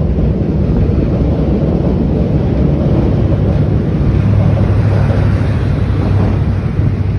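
Diesel locomotive pulling its train slowly through a station close by, a loud steady rumble of engine and wheels. A low engine hum grows stronger from about four seconds in as the locomotive comes alongside.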